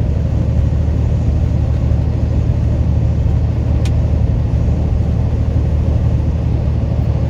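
Semi truck driving at highway speed, heard inside the cab: a steady low rumble of engine and road noise, with a faint click about four seconds in.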